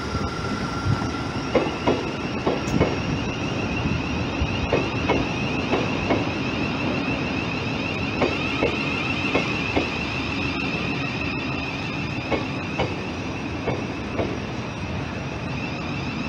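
Thameslink electric multiple-unit train moving slowly past along the platform, its wheels clicking over the rail joints at an uneven rhythm. A steady high electric whine comes in about two seconds in.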